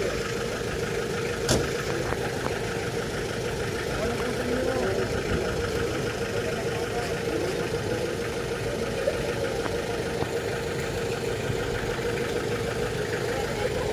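A vehicle engine idling steadily, with faint voices in the background and a single sharp click about a second and a half in.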